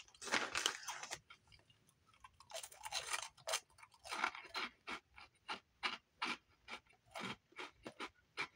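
Crunchy chili cheese crinkle-cut potato snacks being chewed with the mouth open to the microphone: crisp crunches, densest in the first second, then a steady run of about two a second.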